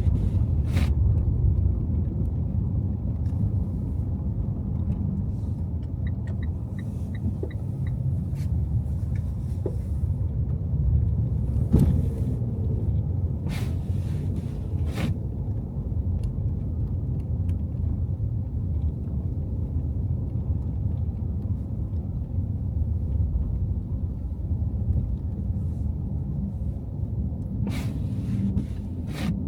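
A car driving on snow-covered city streets, with a steady low rumble from the road and engine. A few sharp knocks come through, and a short run of even ticks about six seconds in.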